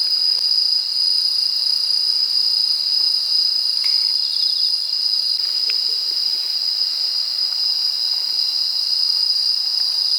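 Crickets singing in a steady, unbroken, high-pitched chorus.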